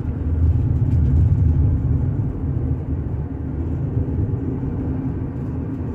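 Car driving at road speed: a steady low rumble of road and engine noise.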